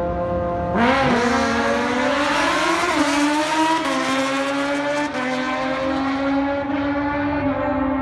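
Car engine at a race event, idling, then revved hard about a second in with a quick swoop in pitch, and held at high revs to the end.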